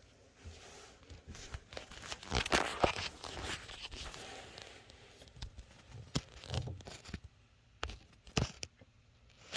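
Copper water pipes ticking and clicking irregularly: a quick run of crackling ticks about two seconds in, then several separate sharp knocks near the end. The owner is unsure whether it is copper pipe expansion or water hammer.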